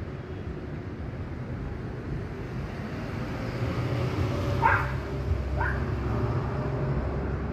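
A dog gives two short, high barks about a second apart, a little past the middle, over a low, steady rumble that grows louder.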